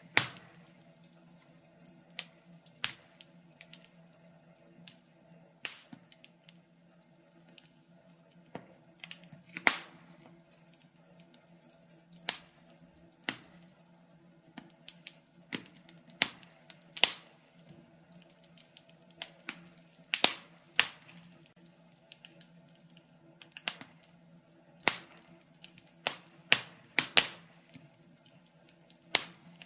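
Wood fire crackling: sharp, irregular pops and snaps, a few of them much louder, over a faint low steady hum.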